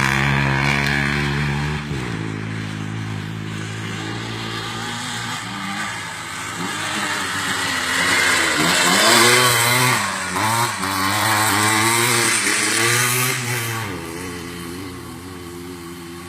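Motocross motorcycle engines, their pitch rising and falling repeatedly as the throttle is worked. Loudest in the middle, fading toward the end.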